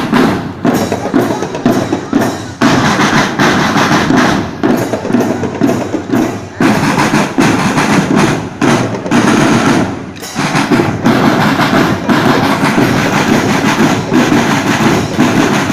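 School drum band playing a loud, fast, dense rhythm on snare and bass drums, with brief breaks between phrases about every four seconds.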